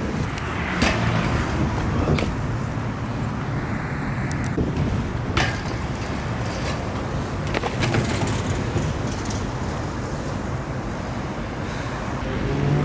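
Steady city street traffic, with engines running and a few sharp clacks.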